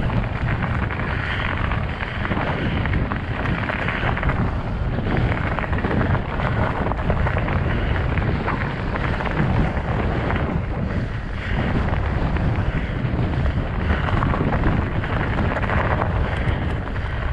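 Steady wind noise buffeting the microphone, mixed with the rolling rumble of a fat bike's studded tyres on snow and ice.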